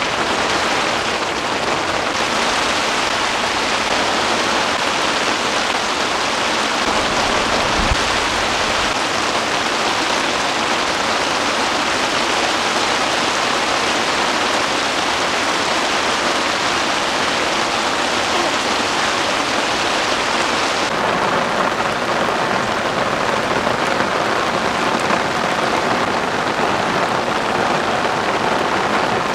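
Heavy rain pouring steadily on and around a tent. A little over twenty seconds in, the sound turns duller as the high hiss drops away.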